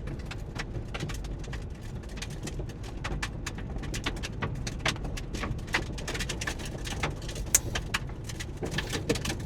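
Pickup truck with a camper driving on a dirt track, a steady low rumble with frequent irregular ticks and clicks as mud and grit are thrown off the tires.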